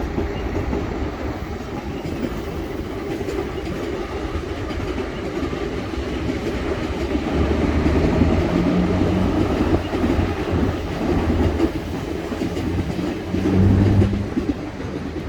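Moscow metro train of 81-717/714 cars running over the rails, its wheels clacking steadily over the rail joints. A low hum comes and goes in the second half and is loudest about a second before the end.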